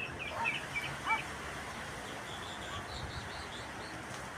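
Thrush (zorzal) calling: a quick run of short high chirps with a few lower curved notes in the first second, then a few fainter high notes a couple of seconds later.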